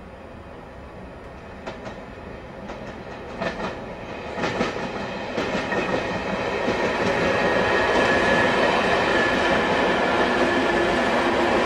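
Slam-door electric multiple unit approaching and running past close by, growing steadily louder: a few sharp clicks of the wheels over rail joints, then a dense steady rumble with a steady high whine.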